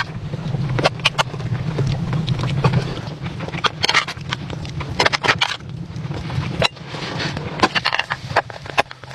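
Irregular sharp crackles and snaps, some in quick clusters, over a steady low rumble.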